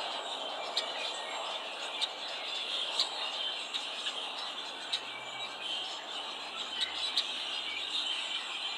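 Small songbirds giving short, sharp chip calls at irregular intervals, a dozen or so in all, over a steady background hiss.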